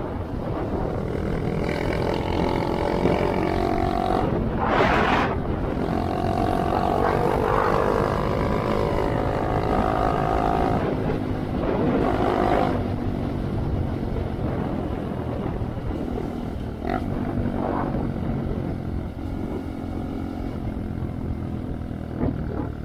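A 2023 Honda Monkey's single-cylinder four-stroke engine running through a Yoshimura RS3 slip-on exhaust, its pitch rising and falling as the throttle is worked while riding. There is a brief rush of noise about five seconds in.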